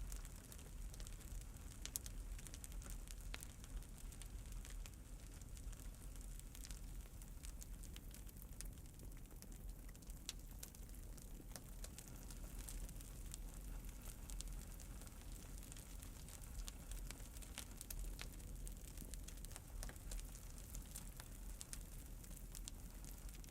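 Wood fire crackling, with frequent small sharp pops scattered irregularly over a steady low rumble.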